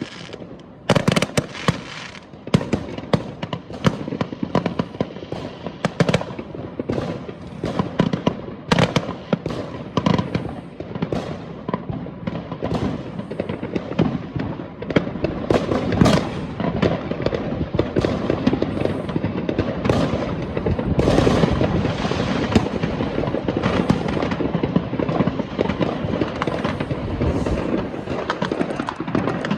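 Many fireworks going off: sharp bangs and reports several times a second over a continuous crackle and rumble of distant rockets and firecrackers, growing denser and louder in the second half.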